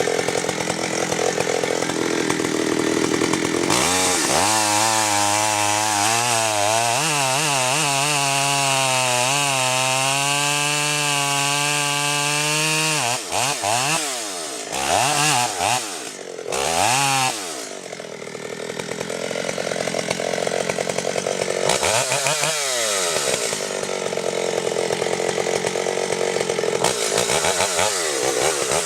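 Chainsaw running hard while cutting, its engine pitch wavering up and down. Around the middle it drops and surges several times, then it runs steadily again.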